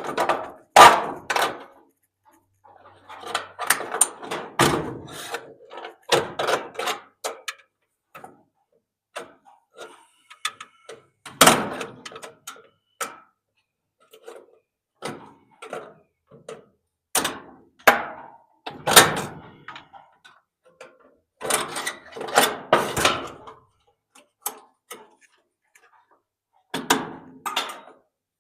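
Irregular knocks, clanks and thunks of hand tools working on an electric clothes dryer's metal parts while freeing its motor. The loudest hits come about a second in and twice more later on.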